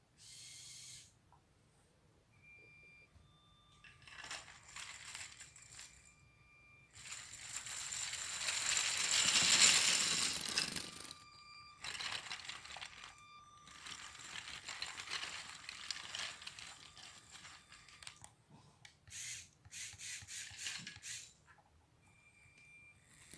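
Motorized LEGO Technic tracked bulldozer driving in several runs a few seconds long: small electric motors whirring and plastic gears and tracks clicking. The loudest run is about seven to eleven seconds in.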